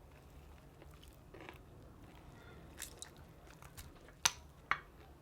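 Close-miked crunching of crispy fried chicken being bitten and chewed: scattered small crackles, then two loud sharp crunches close together near the end.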